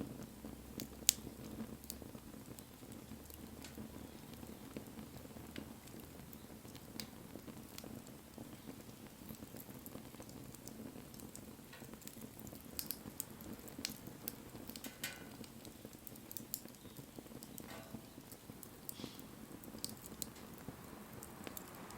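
Wood fire burning, with scattered sharp crackles and pops over a soft steady hiss of the flames.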